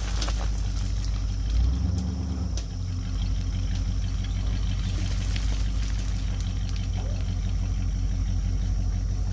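An engine running steadily with a low drone, swelling briefly about two seconds in, with a few light clicks over it.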